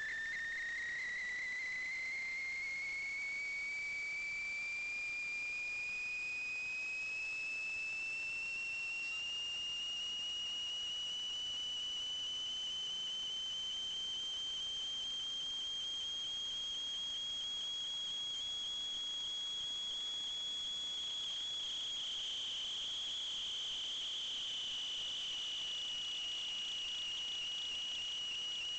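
A continuous high-pitched whine that glides slowly upward in pitch over the first ten seconds or so, then holds steady.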